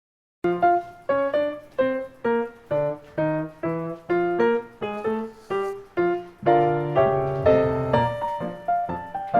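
Background piano music that begins suddenly about half a second in, after silence. It plays separate chords at a steady pace of roughly two to three a second, then turns into fuller, held chords near the end.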